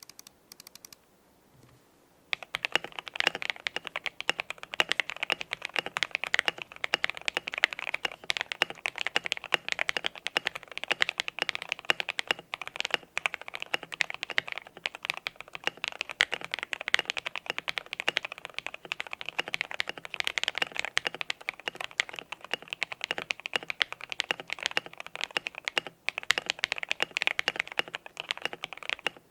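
Continuous fast typing on a custom KBD67 Lite mechanical keyboard with lubed JWK Alpaca linear switches, a polycarbonate plate, foam and tape-modded case, and Infinikey 808-Boom keycaps. A few faint clicks come first, then the steady typing starts about two seconds in.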